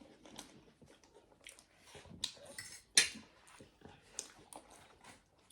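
Eating at a table: scattered small clicks and clinks of cutlery and dishes, with the sharpest click about three seconds in.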